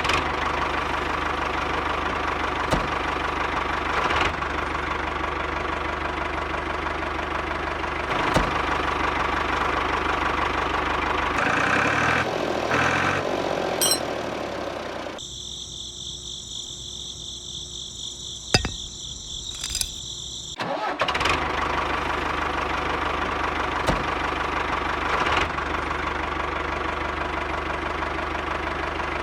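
Small motor running steadily. Its sound shifts about eleven seconds in, and from about fifteen to twenty-one seconds a high-pitched whine replaces it before the steady running returns.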